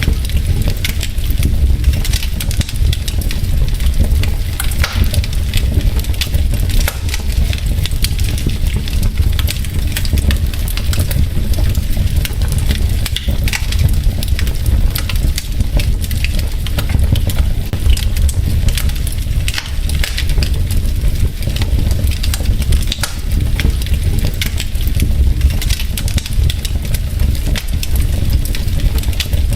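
Wood logs burning in a fireplace, crackling steadily with dense, rapid pops and snaps over a low, steady rumble of the flames.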